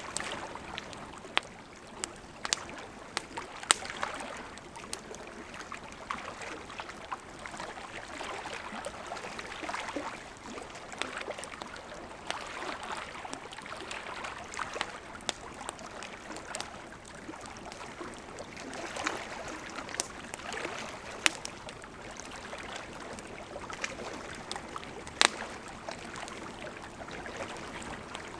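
Wood campfire burning: a steady hiss of flames with irregular crackling and sharp pops from the burning wood, a few pops standing out louder than the rest.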